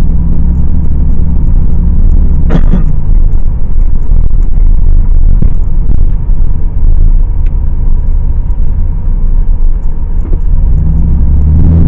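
Car driving, heard from inside the cabin: a steady low engine and road rumble that grows louder near the end, with a single sharp knock about two and a half seconds in.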